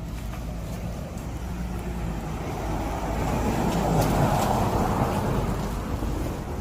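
A road vehicle passing by: its noise swells to the loudest point about four seconds in, then fades, over a steady low rumble.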